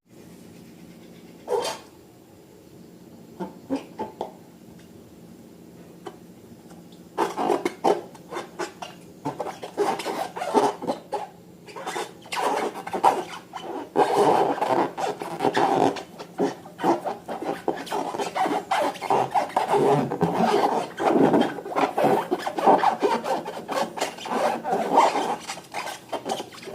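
Slime being squished and worked by hand: a dense run of irregular wet crackling and squelching that begins about a quarter of the way in and grows busier and more continuous through the second half. Before it, only a few isolated clicks over a faint steady hum.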